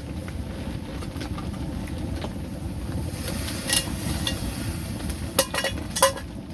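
Steady low rumbling noise, with a few sharp knocks in the second half, one a little before four seconds in and two between five and six seconds.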